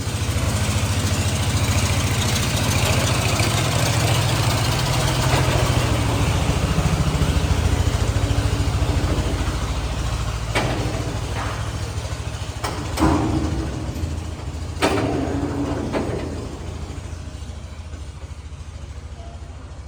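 An engine running steadily, with a few sharp knocks about midway and the engine note easing off near the end.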